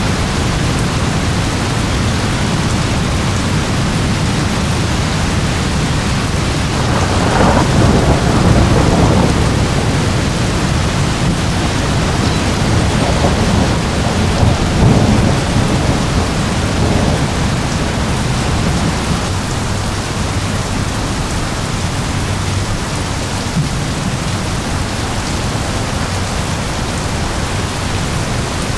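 Steady heavy rain with rolling thunder. The thunder swells about seven seconds in, peaks again around fifteen seconds, then the rain carries on alone.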